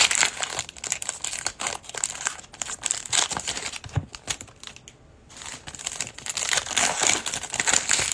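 Plastic card-pack wrapping crinkling and crumpling as trading card packs are handled and torn open, with a short lull about five seconds in.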